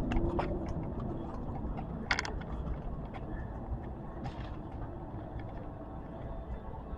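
Steady low vehicle rumble, with a few faint clicks and a short sharp noise about two seconds in.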